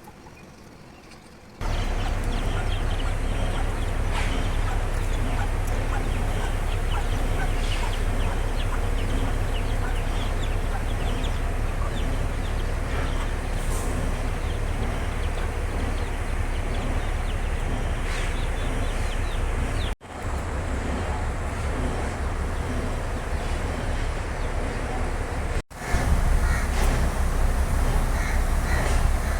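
Farmyard birds and chickens calling over a steady low rumble. The sound breaks off abruptly twice and then resumes.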